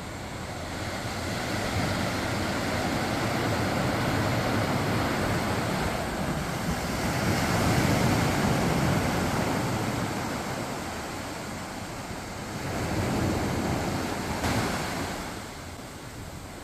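Quiet waves breaking and washing up a sandy beach: a steady rush that swells and fades in long surges several seconds apart, the last one dying away near the end.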